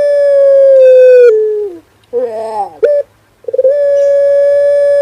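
Male puter pelung dove cooing: a long, drawn-out coo held on one pitch that steps down and fades about a second and a half in, a short wavering note near the middle, then another long held coo starting about three and a half seconds in.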